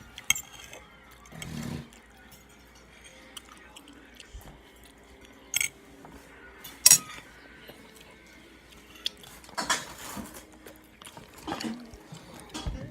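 Eating sounds: a utensil clinking against a dish a few times, with short wet noises of food and mouth in between.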